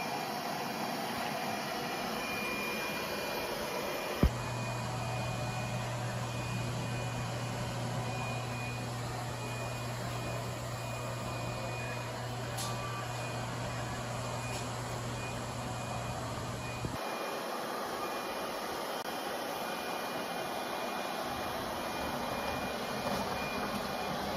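Robot vacuum cleaner running: a steady whirring with a faint high whine. A single sharp click about four seconds in, after which a low hum joins for about twelve seconds.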